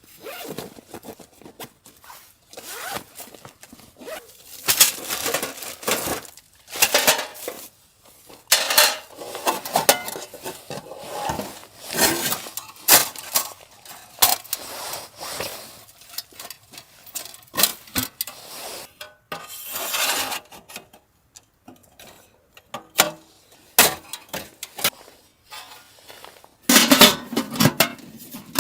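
Pots, pans and metal utensils being handled: irregular clinks, knocks and scrapes, busier and louder near the end.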